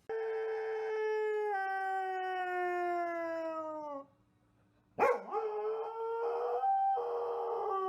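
A dog howling in two long howls. The first is held for about four seconds and slowly drops in pitch. The second starts abruptly about a second later and runs on.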